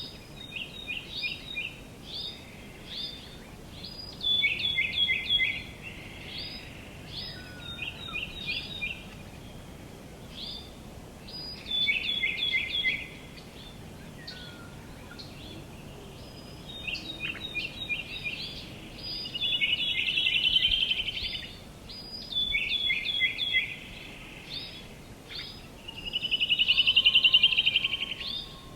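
Songbirds singing: repeated groups of quick, high, downslurred chirps, with a fast trill about two-thirds through and a louder one near the end, over a faint steady background hiss.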